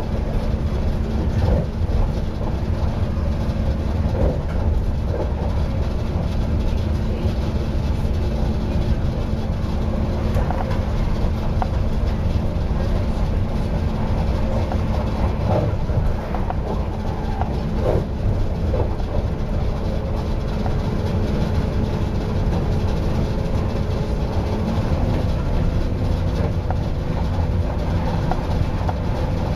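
Passenger train running at speed, heard from inside the carriage by the doors: a steady low rumble of the wheels on the rails with a faint hum, and occasional short knocks from the track.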